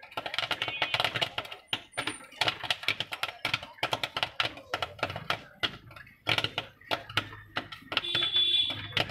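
Popcorn kernels popping in hot oil: a dense, irregular run of sharp pops.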